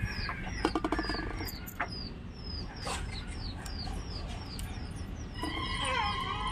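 Small birds chirping: short falling chirps repeating about three times a second. About five seconds in, a rooster crows once, a drawn-out call of about two seconds.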